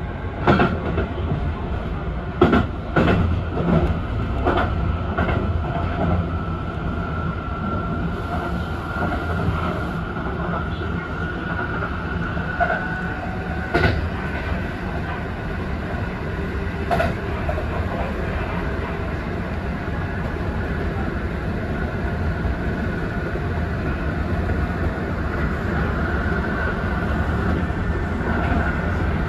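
Kintetsu Urban Liner limited express electric train running at speed, heard from the cab. There is a steady low rumble with a faint high tone. The wheels click over rail joints, in a quick run of clicks over the first few seconds and twice more later on.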